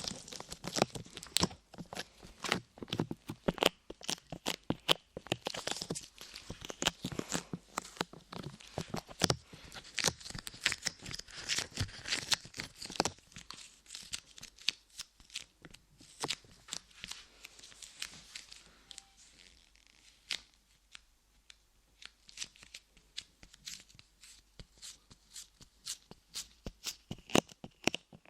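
Light clay pressed and peeled on the microphone's ears, giving dense sticky crackling and clicking that thins out about halfway through.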